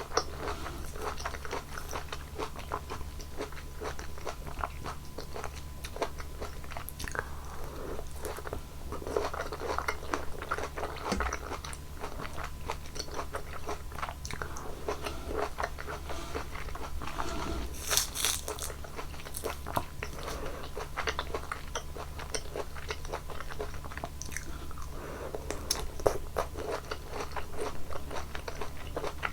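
Close-miked eating of fruit: continuous biting and chewing with wet, crunching mouth sounds, and a sharper crisp crunch about eighteen seconds in. A steady low hum lies underneath.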